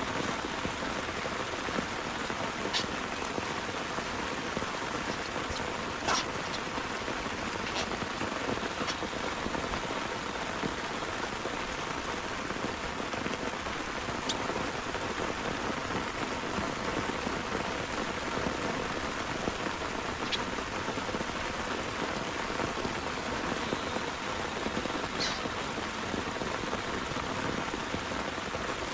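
Steady heavy rain, with a few sharper single drops or drips striking close by now and then, the loudest about six seconds in.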